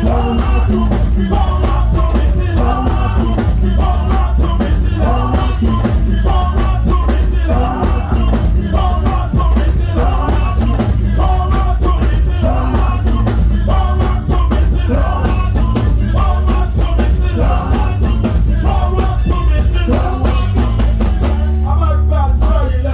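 Live church band with drum kit and heavy bass playing an upbeat gospel praise song, with voices singing over it.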